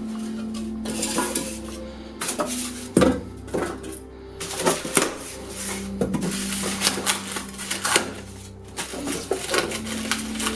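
Irregular clattering, knocking and rustling as packaging and loose parts of a new fridge are handled during unboxing.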